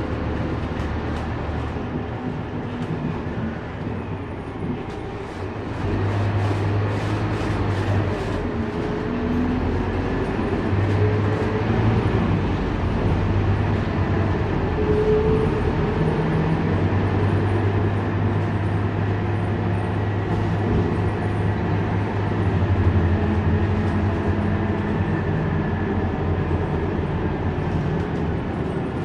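Scania K230UB city bus running under way, its diesel engine note shifting up and down in steps and growing louder about six seconds in, with a faint steady whine over it.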